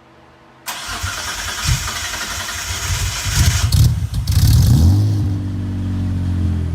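Mitsubishi 3000GT's V6 engine being started: the starter cranks with uneven low pulses, the engine catches about four seconds in with a brief rise, then settles into a steady idle.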